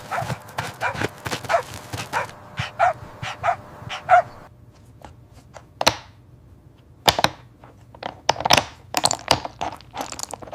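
A dog barking repeatedly: a quick run of barks about twice a second for the first four seconds, then fewer, more widely spaced barks.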